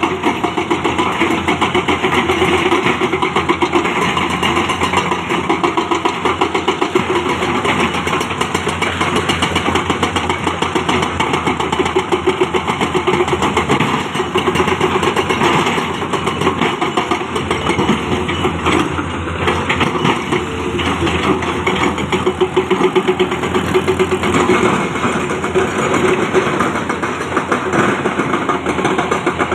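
Heavy-equipment diesel engine running steadily with a fast, even chugging.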